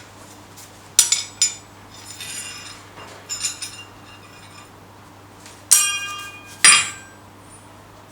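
Sharp metal strikes and clinks on steel, each ringing briefly: a pair about a second in, softer rattling after, then two loud ringing strikes about a second apart past the middle. A steady low hum runs underneath.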